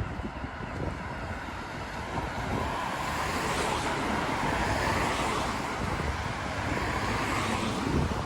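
Road traffic: a car passes by, its noise swelling to a peak about halfway through and fading near the end, over a low rumble of wind on the microphone.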